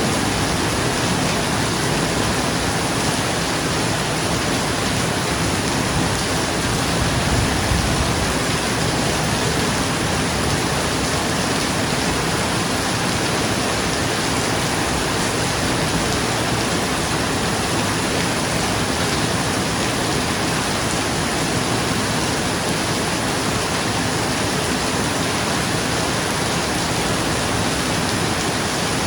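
Steady heavy rain falling on a roof, an even hiss, with a short low rumble of thunder about seven seconds in.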